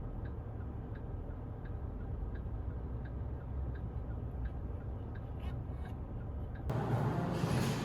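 Soft, regular ticking, about three ticks every two seconds, over a steady low rumble. About seven seconds in, a louder, fuller noise cuts in.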